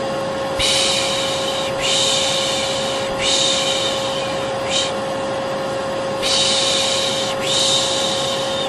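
Vacuum cleaner running steadily with a constant whine, while a person shushes over it in long 'shhh' sounds, about six in a row with short gaps, one of them brief: the 'piş piş' shushing used to lull a baby to sleep.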